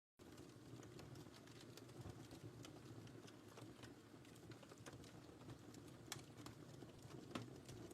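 Wood fire crackling in a fireplace: faint scattered snaps and pops over a soft, steady rumble of the flames, after a split second of silence at the very start.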